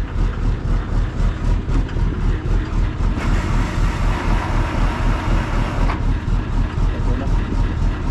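Tow truck's diesel engine running with a steady low throb of about three beats a second. About three seconds in, a hiss starts suddenly, lasts about three seconds and cuts off.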